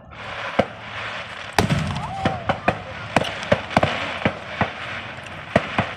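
Fireworks going off: a rapid, irregular string of about a dozen sharp bangs and pops over steady crackling.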